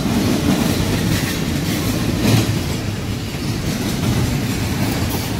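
Double-stack intermodal container freight train rolling past: a steady rumble of steel wheels on rail, with occasional clacks.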